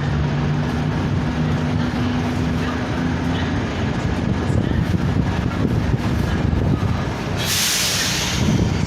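A train running through a station, with a steady rumble and a low engine hum that fades out after a few seconds. A loud hiss starts about seven and a half seconds in and lasts about a second and a half.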